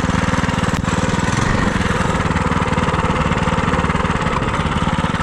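FRP GMB100 minibike's single-cylinder four-stroke engine running at a steady speed under way, with one brief click just under a second in.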